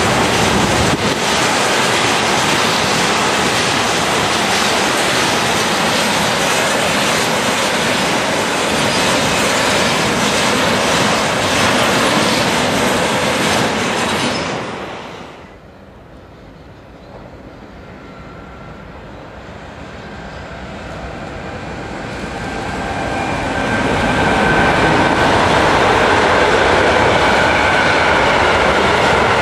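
A train passing close at speed, its wheels running loud on the rails; the sound cuts off sharply about halfway. Then another train approaches, growing steadily louder, with a faint high steady tone over the rail noise.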